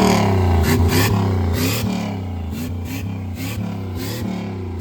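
Turbocharged Dodge pickup engine running loud after a rev, the revs easing off over the first couple of seconds and then holding at a steadier, lower level.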